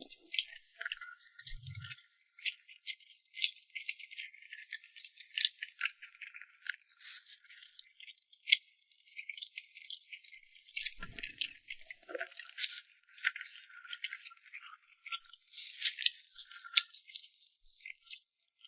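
Close-miked chewing: a dense, irregular run of crisp clicks and crackles from food being bitten and chewed, with a few sharper louder clicks.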